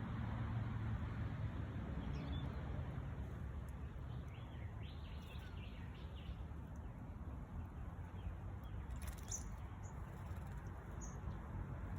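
Faint bird chirps over a steady low outdoor rumble, with a run of short calls near the middle and a brief high call later on.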